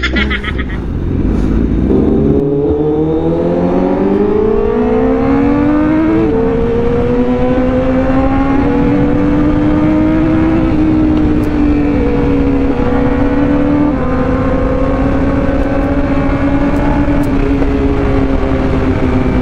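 Honda CBR1000RR-R SP's inline-four engine heard from on board: it pulls hard with a rising pitch for the first few seconds, steps down sharply at a gear change about six seconds in, then holds a steady high-revving cruise with slight rises and falls, over a low rushing of wind.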